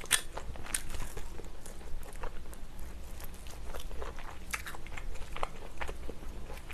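Close-miked chewing of fried chicken: a person's mouth working on the meat and crisp coating, with scattered short crunches and wet mouth clicks.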